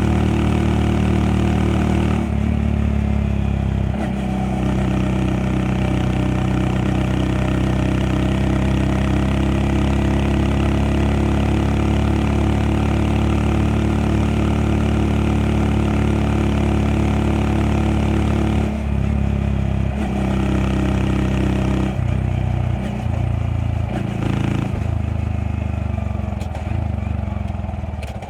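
Honda Monkey 125's single-cylinder four-stroke engine running steadily while riding, its note shifting several times with throttle and speed and dropping away near the end.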